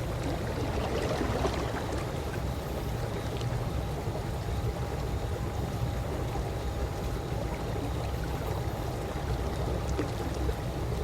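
Calm swimming-pool water lapping and trickling steadily, with small scattered drips and splashes over a constant low rumble and a faint steady hum.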